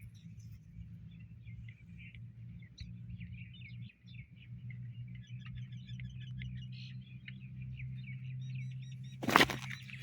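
Small birds chirping and twittering in quick, short notes over a steady low hum. A sudden loud burst of noise breaks in near the end.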